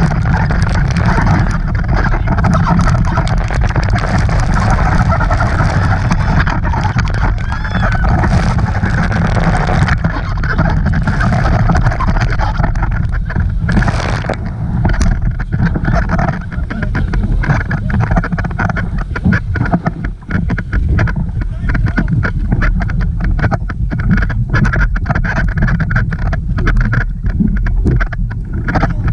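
Motorboat running on the water, with strong wind buffeting the microphone and voices calling out over it.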